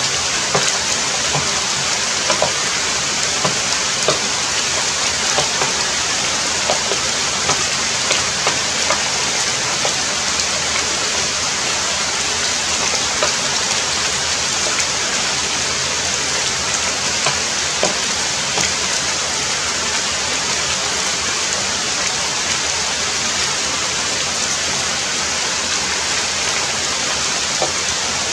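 Heavy rain falling steadily, with many individual drops pattering on a surface.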